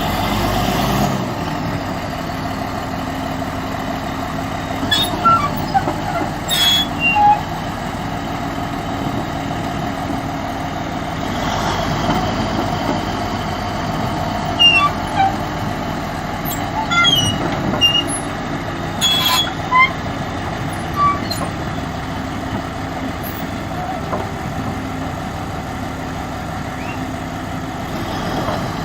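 Heavy diesel engine of earthmoving equipment running steadily. Short high squeaks and sharp clicks come and go over it, mostly in the first two-thirds.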